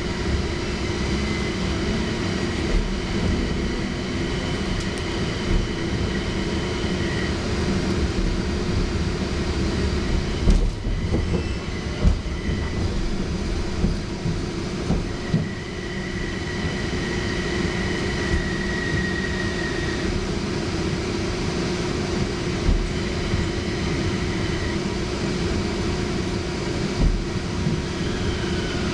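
Toyama Chihō Railway 'Centram' low-floor tram running, heard from inside the car: a steady motor hum over the rumble of the wheels, with a few sharp knocks about ten and twelve seconds in. A faint high whine rises out of it for a few seconds about halfway through.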